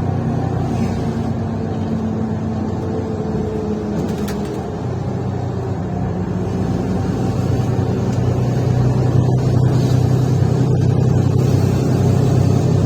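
Mercedes-Benz O530 Citaro C1 Ü bus engine running under way, heard inside the bus, with the loud drone of its broken exhaust. The engine note eases about four seconds in, then builds and grows louder as the bus pulls harder.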